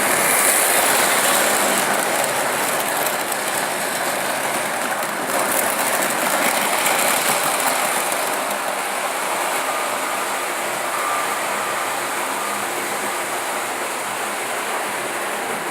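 Märklin model train running along the track, a steady noise that slowly grows quieter.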